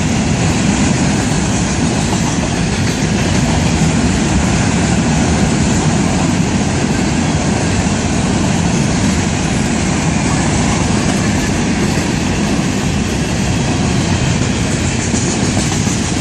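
Freight train cars rolling past close by, a loud steady noise of steel wheels on the rails.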